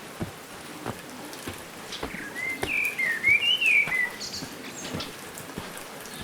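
A songbird sings one short warbled phrase of rising and falling notes about two seconds in. Under it, a hiker's footsteps crunch steadily on a dirt trail, about one and a half steps a second.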